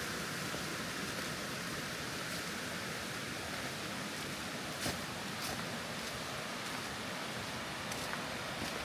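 Steady rushing outdoor forest noise, even and hiss-like, with a few faint sharp clicks about halfway through and again near the end.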